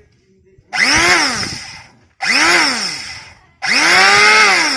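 Electric wood planer's motor switched on in short runs three times, each run spinning up quickly and then falling in pitch as it coasts down, the last run a little longer; this is a test run after its bearing replacement.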